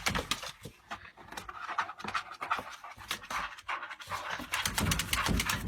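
A dog panting in quick, rhythmic breaths, quieter at first and louder in the second half.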